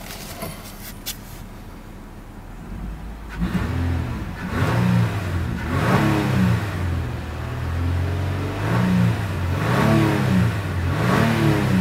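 A 2015 Nissan Pathfinder's 3.5-litre V6, heard from inside the cabin, idles and is then revved repeatedly in Park from about three and a half seconds in, its pitch rising and falling with each blip of the throttle.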